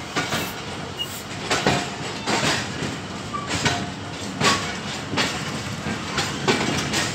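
Passenger train coaches running along the track, heard from an open coach doorway: a steady rumble with wheels clacking over the rail joints in quick pairs of clicks, about once a second.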